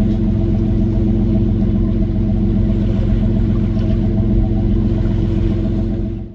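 The single engine of a 55-foot trawler yacht humming steadily at about 900 RPM, under way.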